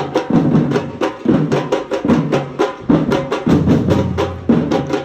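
A group of drummers playing together in a fast, driving rhythm: quick sharp strokes over deep drum beats that land about once a second.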